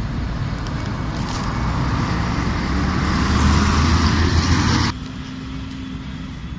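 A steady rushing noise with a low rumble that swells over a few seconds, then drops off sharply about five seconds in, leaving a quieter steady noise with a faint low hum.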